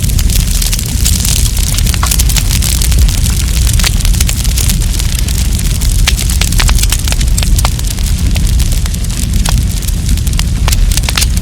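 Wood campfire burning, with many sharp crackles and pops over a steady low rumble.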